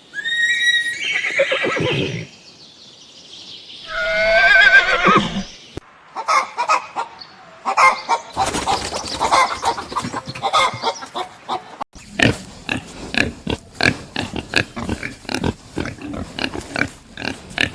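Farm animal calls: a high pitched call at the start, a wavering horse whinny about four seconds in, then a long run of short, rapid animal sounds.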